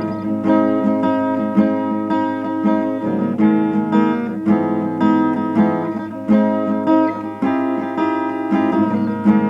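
Guitar strumming sustained chords in a steady rhythm, in an instrumental passage of a sludge metal song with no singing.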